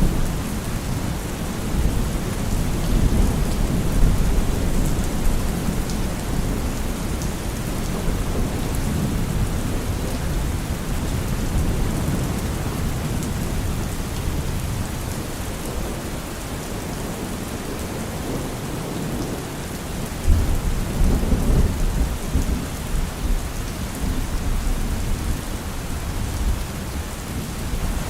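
Steady rain falling, with low rolls of thunder rumbling underneath; a louder thunder rumble comes in suddenly about twenty seconds in.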